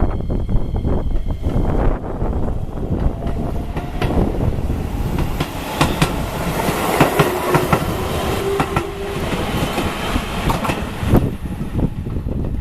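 Keihan 10000-series four-car electric train running past, its wheels clacking over the rail joints in a quick run of clicks through the middle, over a steady rumble.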